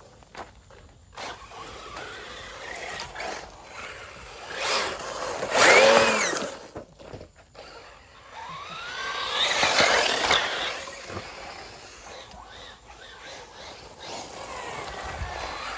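RC racing buggy motor whining as it speeds up and slows, in two loud passes: one about five to six seconds in with a pitch that rises and falls, and a longer one about nine to ten seconds in.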